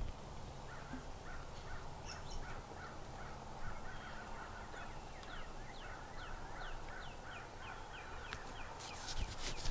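Faint turkey yelps: a long run of short, falling notes, about two to three a second. A short click comes near the end.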